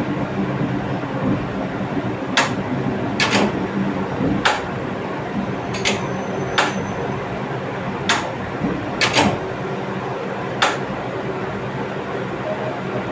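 EMU local passenger train running, a steady rumble and hum broken by about nine sharp clicks at uneven intervals.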